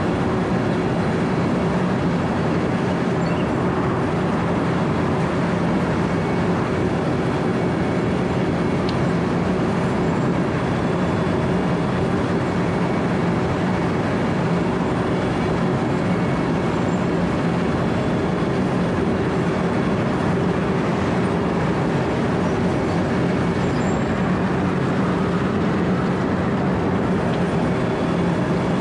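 Wirtgen W 120 CFi four-foot cold milling machine running steadily: its diesel engine holds a constant drone while the cutting drum grinds asphalt at middle drum speed.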